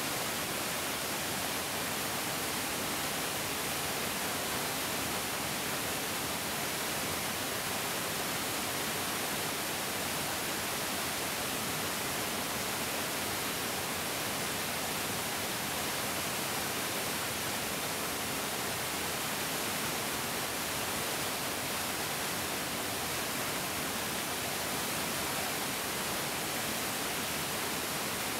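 Mountain stream flowing: a steady, even rush of water with no changes.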